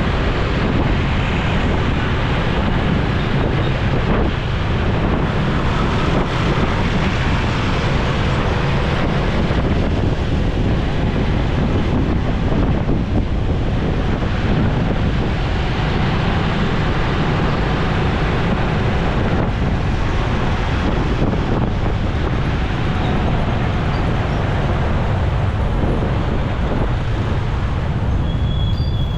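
Steady wind buffeting on the microphone over a motorcycle running along the road at a constant pace.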